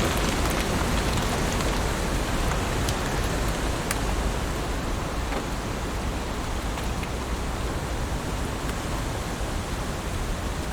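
Heavy rain falling on leaves: a steady, dense hiss with scattered sharp drop ticks, easing slightly in loudness over the stretch.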